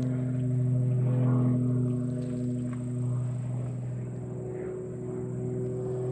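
Boat motor running at a steady pitch, a low even hum with overtones that wavers only slightly.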